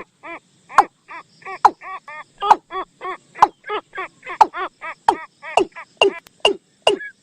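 Recorded bird call of the nok tum, played as a trapping decoy call: short arched call notes repeated about three times a second, with sharp clicks between them.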